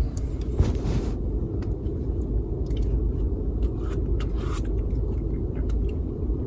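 Steady low rumble inside a car cabin with the engine running, with a few faint clicks and scrapes from eating out of a cup with a spoon.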